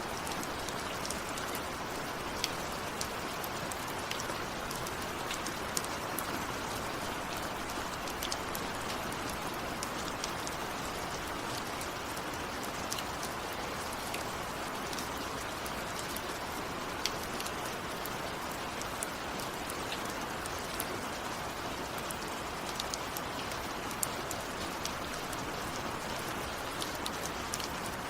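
Steady rain falling, with a continuous hiss and many individual drops ticking sharply on a hard surface.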